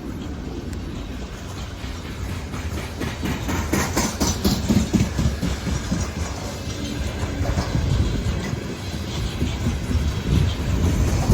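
Freight train hauled by a VL11M electric locomotive rolling past, with a steady rumble and irregular clattering of wheels on the rails.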